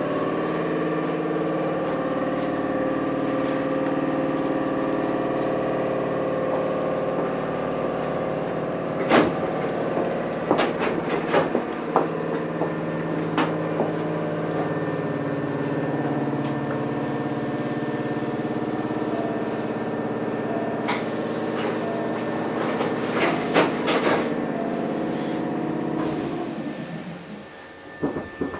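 Hankyu 6300-series electric train running, heard from inside the car: a steady hum from the motors and gears, with clusters of sharp clicks from the wheels over rail joints. A hiss comes in during the latter part, and the running noise dies away near the end as the train slows.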